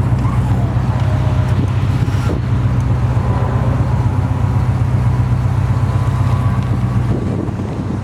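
Oldsmobile Rocket 350 V8 idling steadily through long-tube headers and Flowmaster mufflers, a low, even exhaust note.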